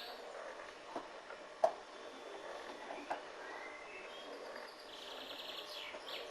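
Faint birdsong: a high trill followed by quick falling notes near the end, with a few light knocks in between.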